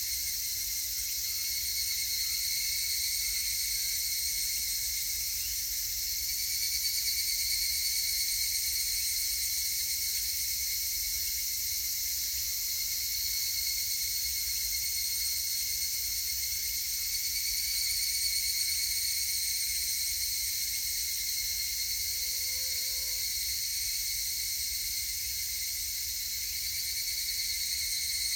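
Higurashi (evening cicadas, Tanna japonensis) singing in a continuous chorus, a steady high-pitched ringing that swells slightly about 7 and 18 seconds in.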